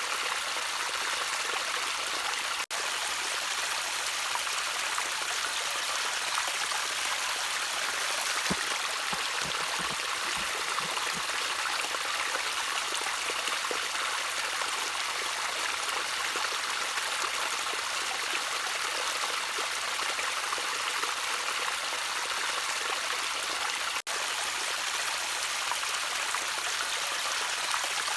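Small stream of water trickling steadily, an even bright rush with a few low gurgles about a third of the way through. The sound drops out for an instant twice, once near the start and once near the end.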